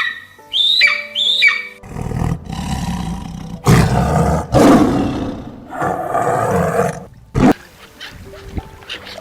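A bird squawks a few times, then a large animal roars in several long, rough bellows, the loudest in the middle, stopping shortly before the end.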